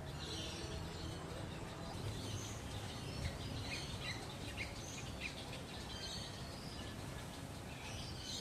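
Small birds chirping in short, scattered calls over a steady low background rumble of outdoor noise.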